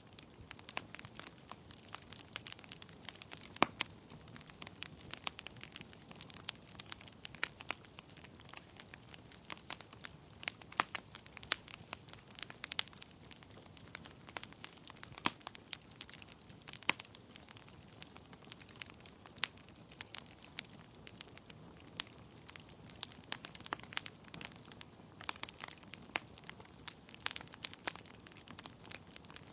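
Wood fire crackling in a fireplace: burning logs give off sharp, irregular pops and snaps over a soft steady hiss.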